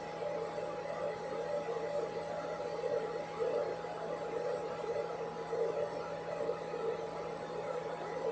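Steady electrical hum with a constant whir beneath it, like a running appliance or motor.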